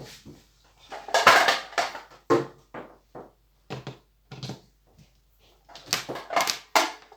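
Irregular knocks and light clatter of a Singer 8280 sewing machine and its parts being handled on the work surface, a scattered run of short separate impacts with a denser cluster near the end.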